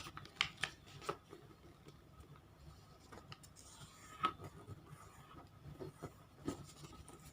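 Square origami paper being folded and creased by hand: faint rustling with a handful of sharp crackles and taps as the paper is pressed flat.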